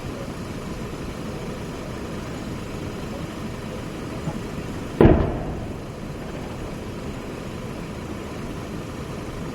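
Steady low rumble, then about five seconds in a single loud weapon shot during live-fire training, a sharp report that rings out and fades within about a second.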